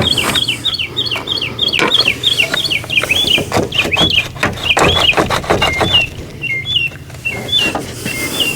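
A bird calling in a fast run of short chirps, about five a second, slowing after about six seconds into fewer, hooked two-part notes. Sharp clicks and knocks sound through the first part.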